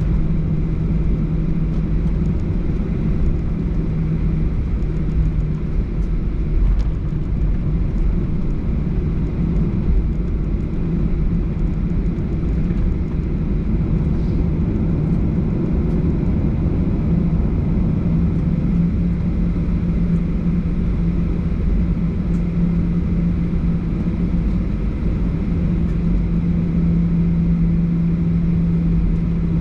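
Cabin noise inside a Boeing 737-800 with CFM56-7B turbofan engines: a steady rumble with a low hum, which fades for a while in the middle and comes back. There is no surge in level.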